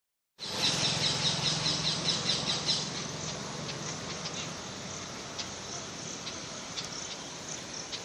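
Birds chirping: a rapid run of repeated high chirps, about five a second, for the first couple of seconds, then scattered single chirps.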